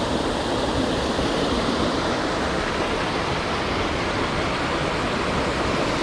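Steady rush of fast-flowing water, an even unbroken noise.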